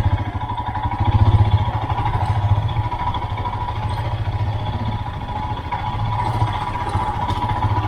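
Royal Enfield Himalayan BS6's single-cylinder engine running steadily while the motorcycle is ridden, with a rapid, even beat of exhaust pulses that swells briefly about a second in.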